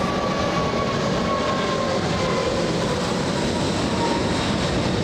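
Jet engines of a Korean Air Airbus A380 at takeoff power just after liftoff: a loud, steady rumble with a faint whine that slowly falls in pitch as the aircraft climbs away.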